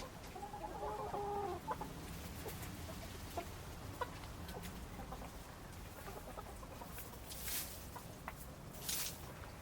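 A chicken clucking, one drawn-out call in the first second and a half, followed by a few scattered sharp clicks and two brief hissing swells near the end.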